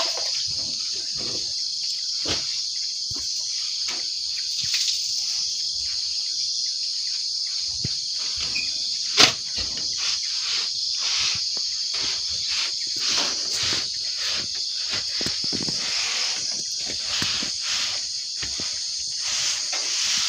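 Dishes clinking and knocking as they are washed and handled, with one sharp clack about nine seconds in, over a steady high-pitched hiss.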